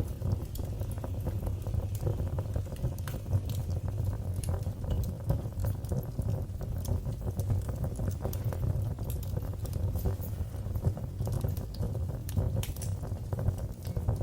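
Fire in a fireplace crackling, with many small sharp pops scattered irregularly over a low, steady rumble of the flames.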